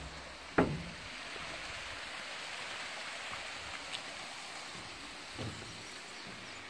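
Steady rushing hiss of outdoor noise, with one sharp knock about half a second in and a softer thump later.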